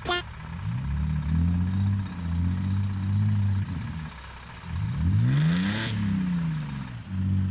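A car engine revving up and down repeatedly, its pitch climbing, holding and dropping several times. A short burst of hiss comes about two-thirds through, at the top of the steepest rev.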